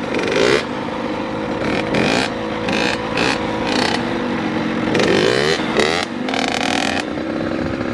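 Two-stroke dirt bike engine revving in first gear, its pitch rising in several quick sweeps as the throttle is opened.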